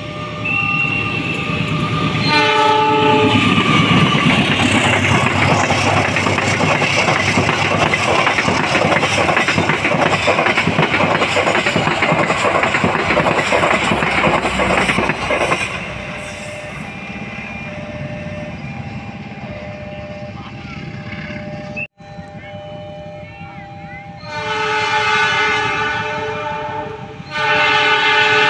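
Train horn sounding, then a train passing close by with a loud rush of wheel and rail noise for about twelve seconds before it fades. After a sudden break, the horn sounds again twice near the end.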